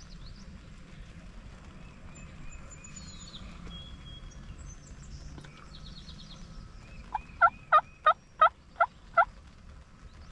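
Wild turkey calling: a run of about six loud yelps, evenly spaced about a third of a second apart, each note dropping in pitch. Small songbirds chirp faintly in the background.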